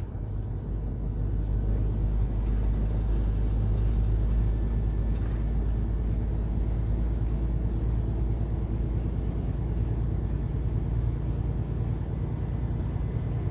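Semi truck cruising at highway speed: a steady low drone of its diesel engine mixed with tyre and road noise.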